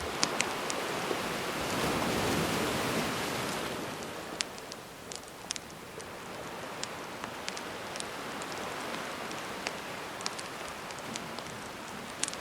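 Calm sea waves washing in, with one wave swelling and breaking about two seconds in and then draining away. Over it, a wood campfire crackles with scattered sharp pops.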